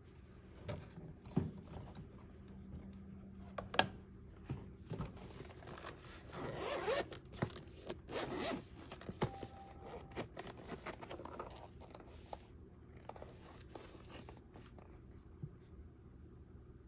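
A zipper pulled open in short runs, among scrapes and clicks of handling, loudest from about six to nine seconds in.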